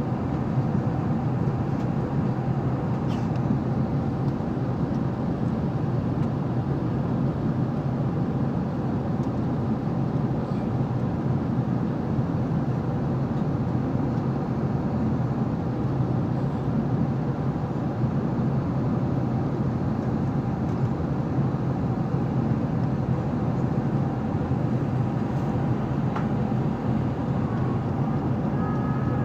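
Steady cabin noise of an Airbus A380 airliner in flight, an even low rush that holds one level throughout, heard from inside the cabin.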